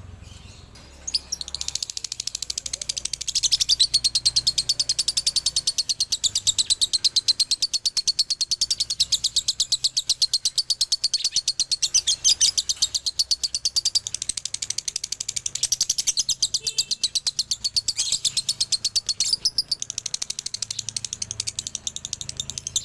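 Male lovebird singing its ngekek: a long, rapid, unbroken chatter of sharp, high-pitched chirps in the doubled (dobelan) style, starting about a second in after a brief pause.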